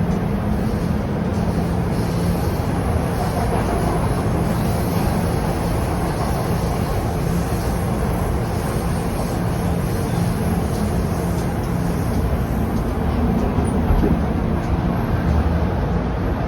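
Subway train running between stations, heard from inside the car: a steady, loud rumble of wheels on rail with a low hum that is strongest in the first few seconds.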